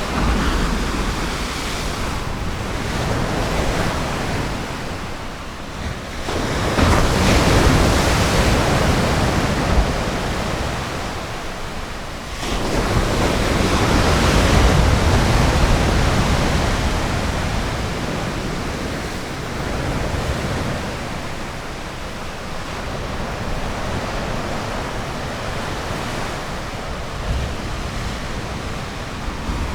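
Ocean surf breaking on a beach: a steady wash of noise that swells as waves break, about six seconds in and again about twelve seconds in, then slowly recedes. Some wind rumbles on the microphone.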